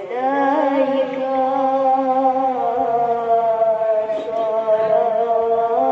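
A man singing sholawat, an Islamic devotional song. He holds one long note: it wavers in a quick ornament for about the first second, then steadies.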